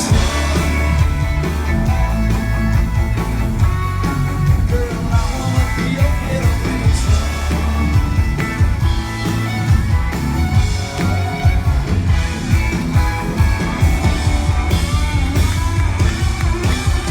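Live country band playing loudly with a singer's voice over it, a heavy bass line throughout.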